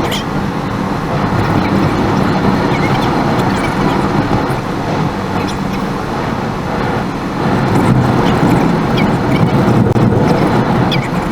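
Car driving along a road: steady engine and road noise with scattered small ticks.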